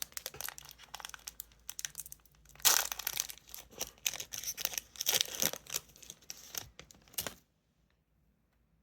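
Crinkling and tearing of a trading card pack wrapper being ripped open and handled, in quick crackly bursts, loudest near the 3-second mark. It cuts off suddenly a little past seven seconds in.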